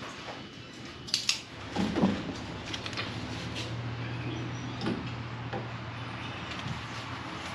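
Parts and packaging being handled: a few sharp clicks and knocks about a second in, a thump about two seconds in, then lighter handling noises over a steady low hum that starts about halfway through.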